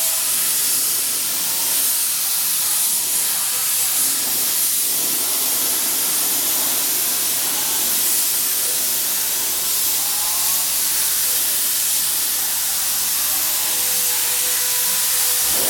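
Compressed-air paint spray gun (a small 'mini' touch-up gun) spraying paint with a steady hiss.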